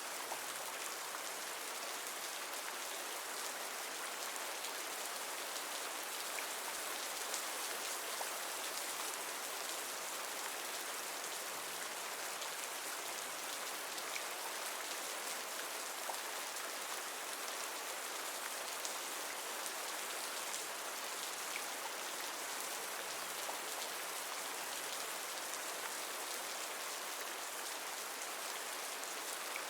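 Steady rain falling, an even hiss of many drops with faint scattered patters and no change in intensity.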